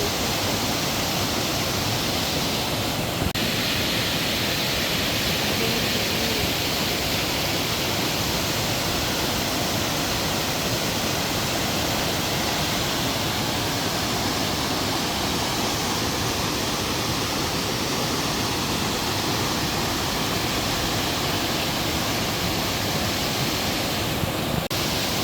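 Waterfall pouring into its plunge pool: a steady rushing of falling water.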